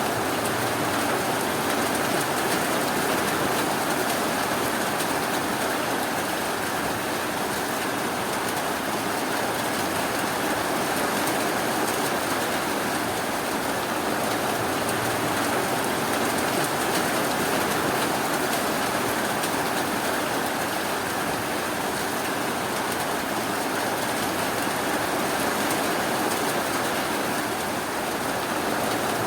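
Steady rainfall, an even unbroken rush with no thunder or sudden sounds.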